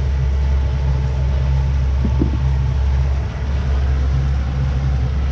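A boat engine idling, a steady low rumble with a brief slight dip a little past halfway.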